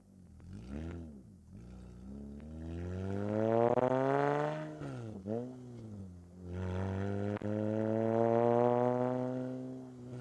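Toyota 2GR-FE V6 engine and exhaust revving: a short swell, a long climb in revs that drops off sharply, a quick blip, then another long climb that is held and falls away near the end.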